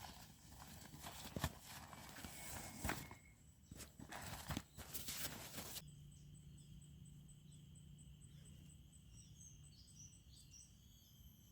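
Footsteps and rustling over the ground for about six seconds. Then, after a sudden change, a quiet steady background of insects with a fast high pulsing tone and a few faint high chirps.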